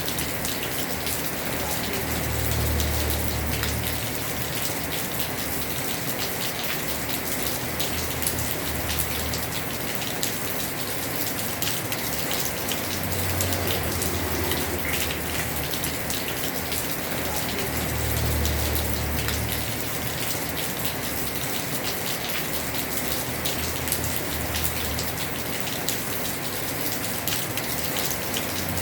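Heavy rain falling on a house roof: a dense, steady hiss with the ticks of many separate drops. A low rumble swells and fades every few seconds.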